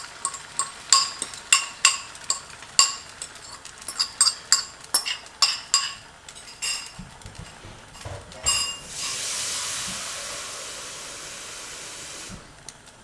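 Eggs being beaten in a bowl: a utensil clinks against the bowl with a ringing tone, about twice a second, for about six seconds. A few dull knocks follow, then a steady hiss for about three and a half seconds that cuts off suddenly.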